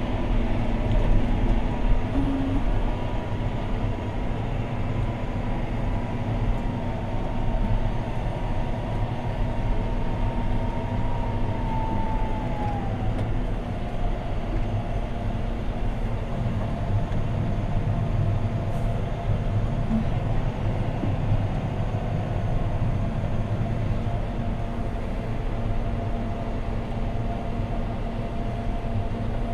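John Deere 6215R tractor's six-cylinder diesel running steadily under ploughing load, heard inside the cab as a constant deep drone. A high whine sits over it and drops slightly in pitch about halfway through.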